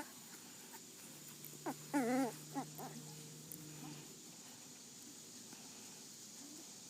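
Puppy whimpering about two seconds in: a short sliding cry, then a wavering, warbling whine and a brief last yelp.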